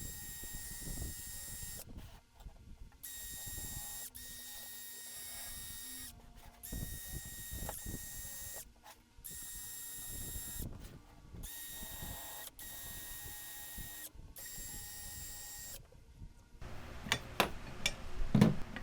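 A steady mechanical hum with a high whine, like a small power tool's motor running. It stops and restarts abruptly several times. Near the end comes a quick run of sharp metallic clicks and knocks.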